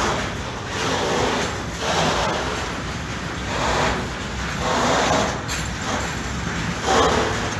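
A train passing on the tracks: a steady rumbling, rubbing noise that swells and fades about once a second.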